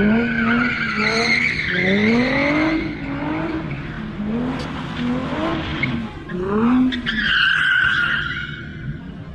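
A car engine revving up again and again, its pitch climbing with each rev, while the tyres squeal in a long steady screech near the start and again near the end.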